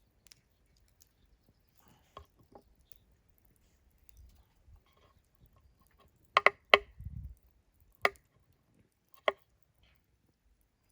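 Knife striking a cutting board in sparse, irregular knocks while food is cut. Two faint knocks come about two seconds in, then a loud cluster about six and a half seconds in, and two more single knocks later.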